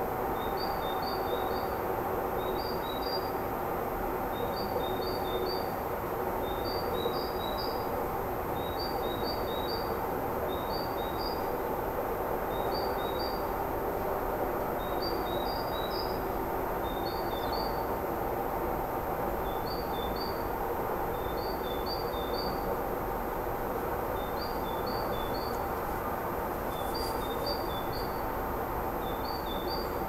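A small songbird repeats a short phrase of two or three high chirps about every one and a half seconds, over a steady low background noise with a faint hum.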